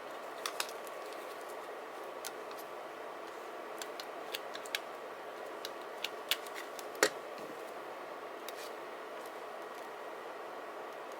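Scissors snipping paper in short, scattered cuts, with a sharper click about seven seconds in.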